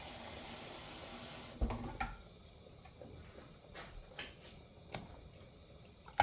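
Kitchen tap running in a steady hiss, shut off about a second and a half in with a thud, followed by a few light clicks and knocks, a sharper knock at the very end.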